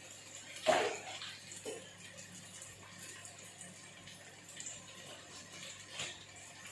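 Sliced onions frying in oil in a pan, with a steady sizzle. A brief louder sound comes about a second in.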